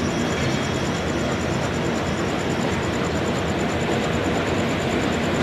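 Gujarat Mail's LHB passenger coaches rolling past as the train departs, a steady noise of wheels running on the rails.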